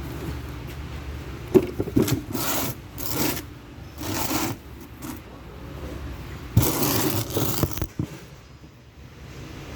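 Metal tool work, with scraping and clinking in several short bursts and a couple of sharp metallic knocks about one and a half and two seconds in.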